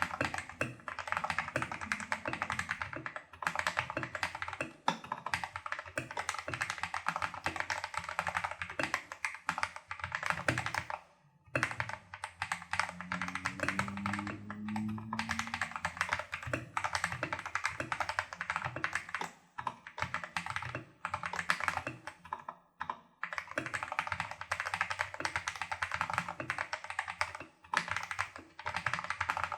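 Steady, fast typing on a Tester68 mechanical keyboard with lubed Holy Panda clone tactile switches and XDA-profile keycaps: a dense run of keystroke clacks, with a short pause about a third of the way through.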